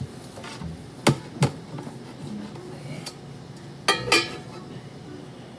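Kitchenware knocking and clinking: two sharp knocks about a second in, then a quick run of clinks around four seconds in.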